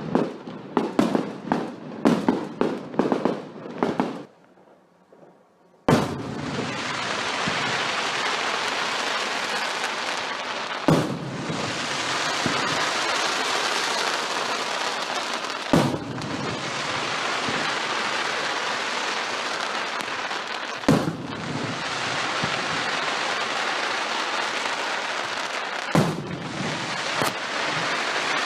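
Fireworks going off: a rapid run of sharp bangs and pops for about four seconds, a sudden drop to near silence, then a steady dense crackle with a single louder bang about every five seconds.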